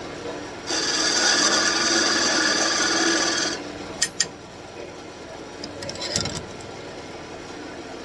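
Turning tool cutting into a birch spindle on a wood lathe, a loud rasping cut lasting about three seconds over the lathe's running hum. Two sharp clicks follow, then a brief lighter scrape.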